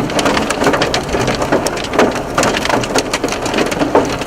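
Large hailstones pelting a car in a dense, unbroken clatter of hard impacts on its body and glass, with a few louder cracks standing out.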